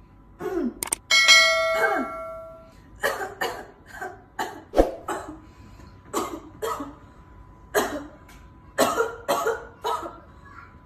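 A bell-like ding rings out about a second in and dies away over about a second and a half. It is followed by a string of about a dozen short, sharp bursts that sound like coughs or clipped vocal sounds.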